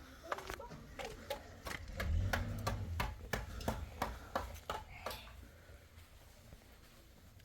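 A quick run of short sharp knocks or clicks, about three a second, lasting about five seconds, over a low rumble, then quieter.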